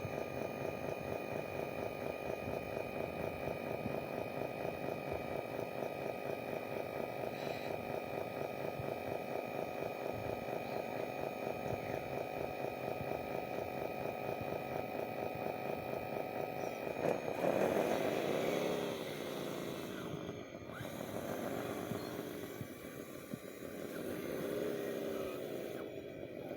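Motor of a radio-controlled construction model whirring steadily with a fast, even pulsing. About two-thirds of the way through the sound changes, its pitch rising and falling several times in a row.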